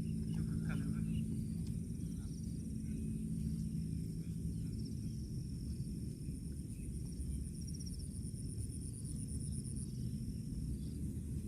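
Steady high-pitched insect trilling over a continuous low rumble, with a low steady hum that fades out about halfway through.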